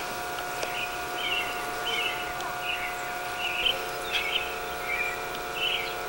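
A small bird chirping over and over, short high notes about every half second, over a steady hum.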